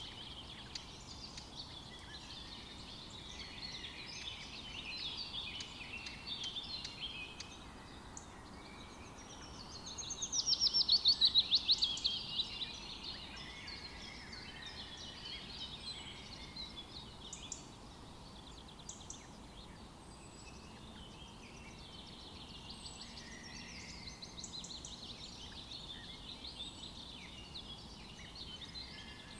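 Several songbirds singing at once, overlapping chirps and warbled phrases, with one louder bird's fast trill of rapidly repeated notes about a third of the way in.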